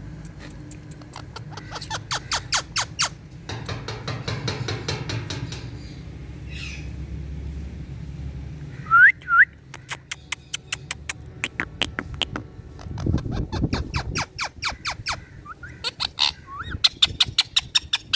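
Indian ringneck parakeet giving two short rising whistles about halfway through, among several runs of rapid clicks.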